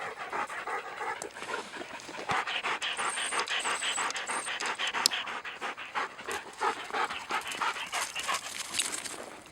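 A dog panting hard in quick, rhythmic breaths, out of breath from chasing a ball.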